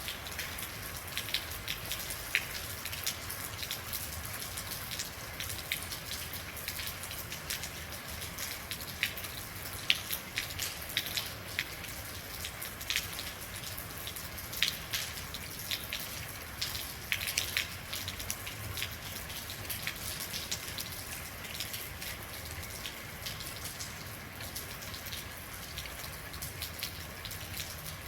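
Steady rain falling, a constant hiss with many individual drops ticking sharply and irregularly on a hard surface close by.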